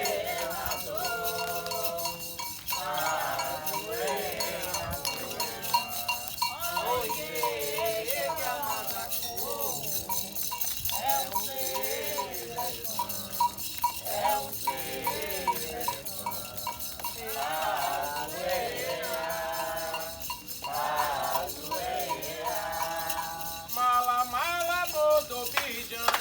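Voices singing a Candomblé chant over steady rattling metal percussion.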